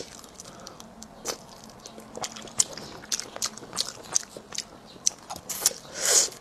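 Close-miked eating of spicy crayfish tails: irregular sharp crackling clicks of biting and chewing, with a louder, longer mouth sound near the end.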